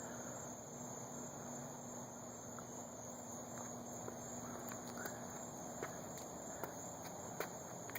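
Quiet outdoor ambience: a steady high-pitched insect drone, with faint footsteps and scattered light clicks. A faint low hum stops about five seconds in.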